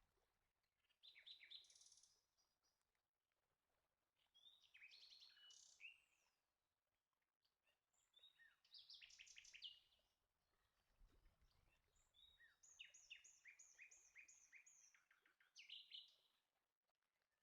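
Faint bird song: four phrases of quick, high chirping notes, each a second or more long, several seconds apart.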